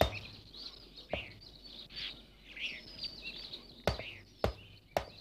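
Small birds chirping, with several sharp clicks scattered among the calls, the loudest about four seconds in.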